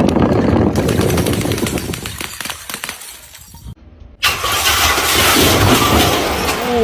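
Glass bottles being crushed: a sudden, dense crackle of breaking and grinding glass that fades over about three and a half seconds. After a brief silence a second loud crushing begins, with a vehicle engine heard alongside it.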